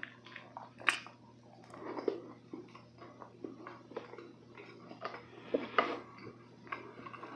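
Close-miked chewing of soft blueberry roll cake: wet, squishy mouth sounds with scattered small clicks, and a couple of sharper clicks about a second in and again near the end.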